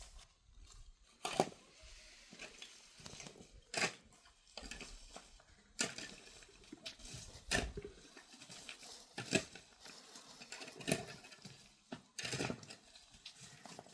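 A series of sharp knocks and clicks, irregularly spaced about one to two seconds apart, with faint handling noise between them.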